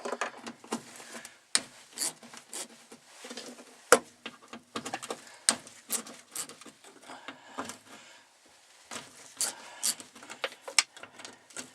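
Small ratchet clicking and rubbing in irregular runs as the 8 mm screws holding an in-tank fuel pump are loosened one by one, with one louder knock about four seconds in.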